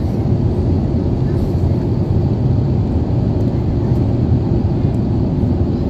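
Steady low roar of an Airbus A350-900 airliner's engines and airflow, even and unchanging, with most of the sound deep and low.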